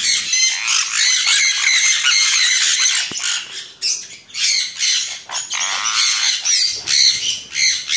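Several aviary parrots squawking, many loud high-pitched calls overlapping one another.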